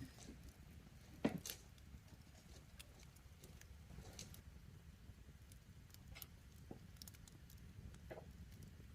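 Wood campfire crackling softly, with scattered sharp pops, the loudest about a second in.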